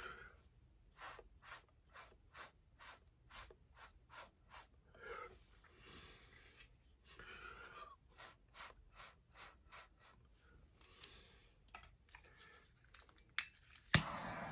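A run of short scratching strokes, about two a second, then two sharp clicks near the end, the second one loud.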